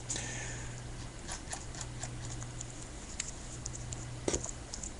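Faint handling of trading cards and their pack: scattered light ticks and rustles, with one slightly sharper click about four seconds in, over a steady low hum.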